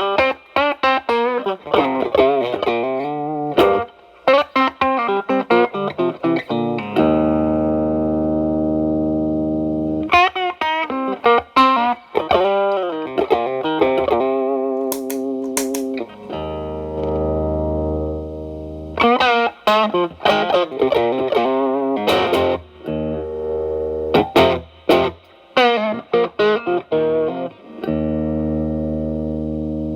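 Fender Telecaster through a Xotic BB-series overdrive pedal with its gain at 9, into a Marshall Valvestate amp's clean channel, playing improvised blues licks. Runs of quick notes alternate with notes and chords left to ring for a few seconds, giving a crunchy overdriven tone.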